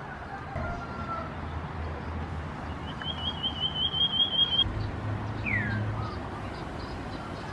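Common iora calling: a fast, high trill of rapidly repeated notes lasting about a second and a half, followed about a second later by a single downslurred whistle.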